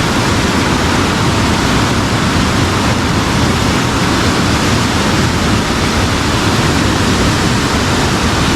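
Fast-flowing water of a river swollen after rain, rushing steadily and loudly with no change.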